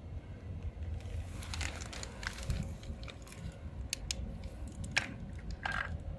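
Scattered small clicks and short crinkly rustles of objects being handled, over a low steady hum.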